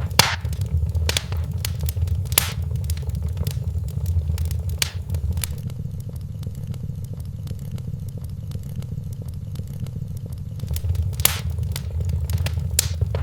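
Wood fire in a fireplace crackling, with irregular sharp pops over a low steady rumble; the pops thin out in the middle and pick up again near the end.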